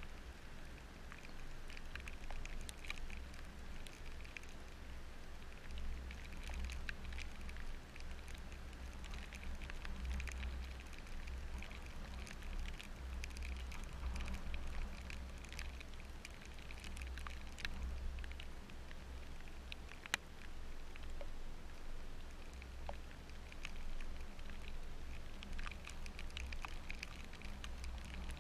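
Steady rain, with many small raindrop ticks pattering throughout over a low steady rumble, and one sharper click about two-thirds of the way through.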